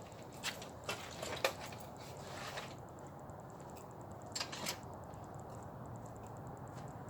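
Scattered light clicks and knocks of camping gear and truck fittings being handled, a few in the first two seconds, a short rustle, then a quick pair about four and a half seconds in, over a steady low hum.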